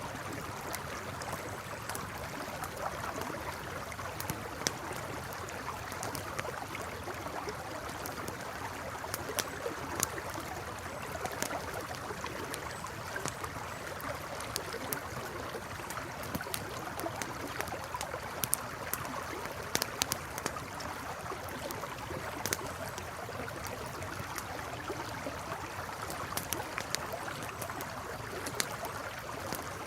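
A river flowing and gurgling steadily, with a campfire crackling over it in scattered sharp pops.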